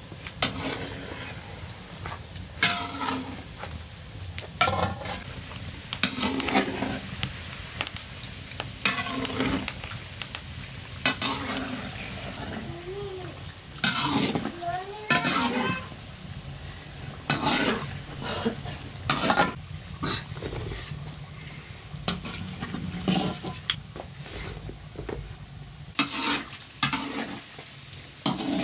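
Khajoor dough pieces deep-frying in oil in a wok, sizzling, while a metal utensil stirs and scrapes them in repeated strokes every second or two.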